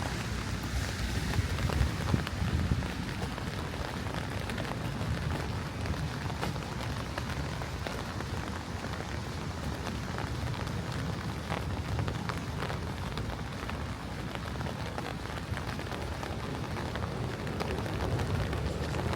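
Steady rain falling on hard surfaces, with scattered individual drops ticking close by and a low rumble underneath.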